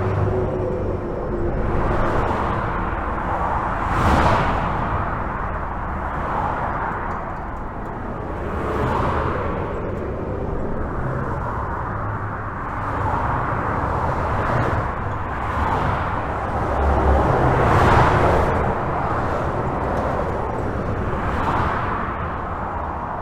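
Highway traffic heard from under a bridge: a continuous rumble of tyre and engine noise, with individual vehicles swelling past every few seconds, the loudest passes about four seconds in and again near eighteen seconds.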